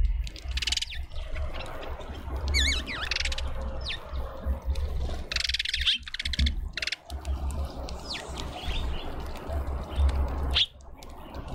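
Small garden birds chirping and calling at a feeder in several separate bursts, one of them a wavering, falling call. A low rumble comes and goes underneath.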